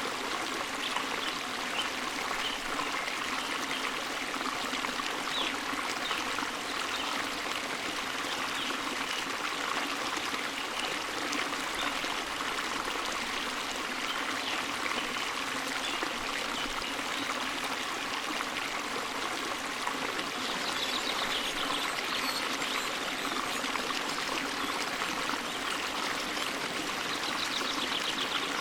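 Forest stream water flowing steadily.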